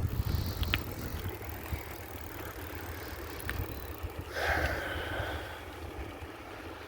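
Wind buffeting the microphone as a low, steady rumble during a bicycle ride, with a few light clicks and a short hiss about four and a half seconds in.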